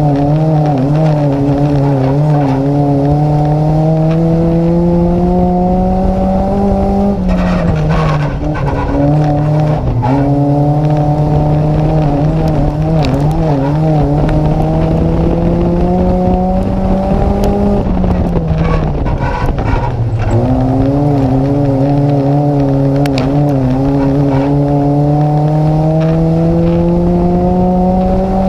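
Nissan Micra race car's engine heard from inside the car under racing load. The pitch climbs steadily along each straight and drops sharply as the driver lifts for the corners, about every ten seconds, with knocks and rattles around the lifts.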